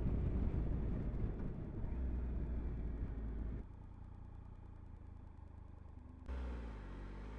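Motorcycle engine running at low speed with a low rumble. It drops abruptly quieter about halfway through, then comes back louder near the end with a steady pitched note.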